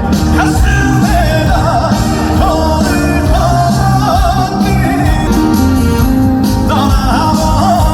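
Male trot singer singing live with a full backing band: a bending, melismatic vocal line over steady bass and drums, through loud festival speakers.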